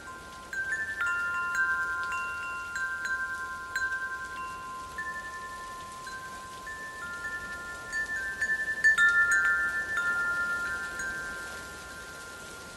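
Wind chimes ringing irregularly in gusts, a few tuned tones struck again and again and left ringing, over a steady hiss. The strikes come in two flurries, the livelier one about two-thirds of the way through.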